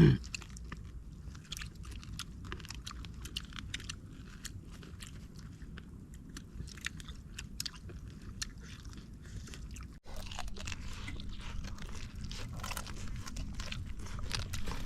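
Close-up eating of a cooked wild dove: steady chewing and crunching with many small clicks of biting and mouth sounds. A short loud sound right at the start.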